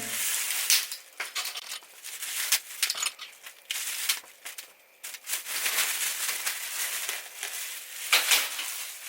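Irregular rustling and crinkling with small sharp clicks and scrapes, as of things being handled at close range.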